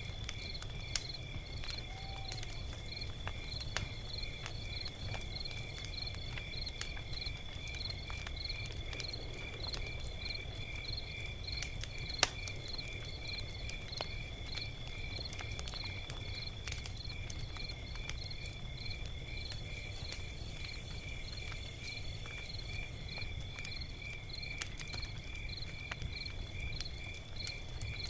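Log fire crackling with scattered sharp pops, one loudest pop about twelve seconds in, over a low steady rumble. Crickets chirp steadily throughout in a regular pulse of about two chirps a second over a continuous high trill.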